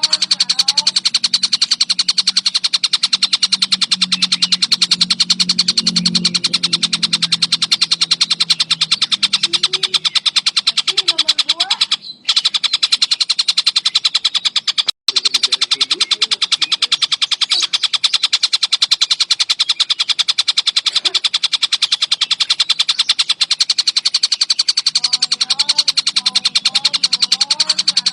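Collared kingfisher (tengkek buto) calling in a long, very fast, unbroken run of rapid sharp notes, cut off briefly twice midway.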